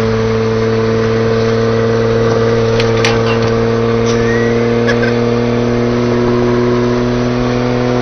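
Boat motor running steadily at speed, its engine pitch holding even throughout, with a few faint clicks and knocks.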